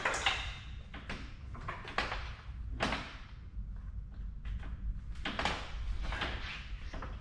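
Rusty scrap metal being handled and worked by hand: irregular clanks, knocks and short scrapes, several close together about five seconds in.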